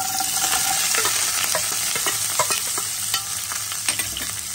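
Chopped onion, tomato, cashews and almonds sizzling as they land in hot oil in a non-stick kadai: a steady, loud frying hiss that starts suddenly, dotted with scattered clicks and pops.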